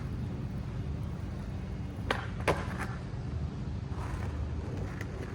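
Skateboard rolling on pavement, its wheels giving a steady low rumble, with two sharp clacks a little over two seconds in.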